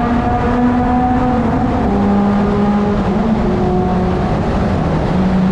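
Motor vehicle on the move: a steady engine hum that drops in pitch a couple of times, over loud road rumble.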